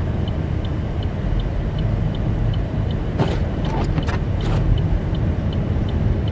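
Steady low road and engine rumble inside a car's cabin while driving slowly on snow, with the hazard-light flasher ticking evenly about three times a second. Four brief noisy swishes come about halfway through.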